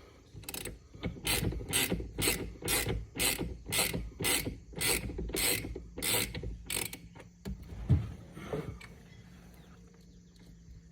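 Socket ratchet wrench clicking in quick, even strokes, about three a second, as it runs off the steering-wheel centre nut; the clicking stops about seven seconds in. A single dull thump follows near eight seconds.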